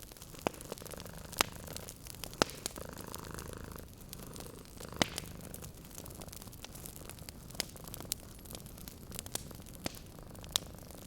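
A cat purring steadily and low, with a wood fire crackling over it in scattered sharp pops, about ten of them.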